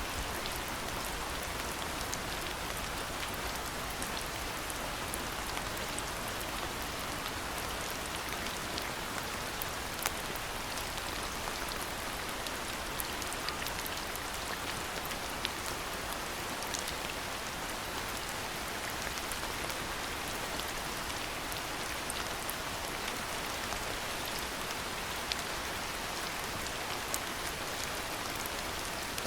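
Steady rain falling, an even hiss with individual drops now and then ticking out sharply.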